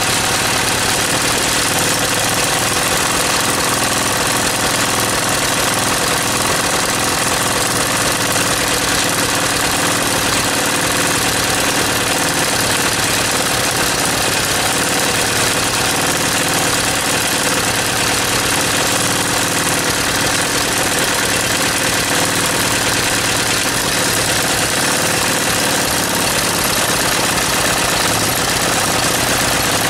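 Engine running steadily at a constant speed, with a fast, even beat and no change in pace.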